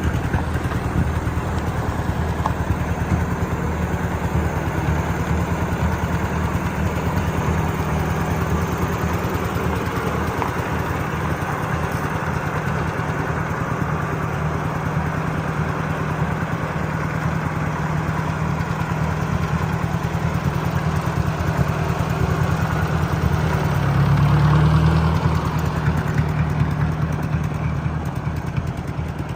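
Ford 4000 tractor engine idling steadily, briefly picking up speed and getting louder near the end.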